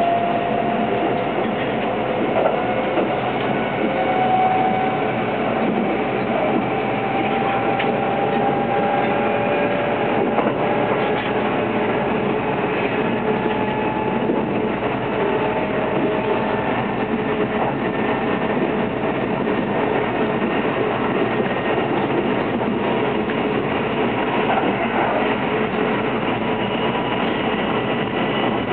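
Kintetsu 22600 series 'Ace' electric limited express heard from inside the passenger cabin while running at speed: a steady rail running noise, with faint whining tones that slowly rise in pitch.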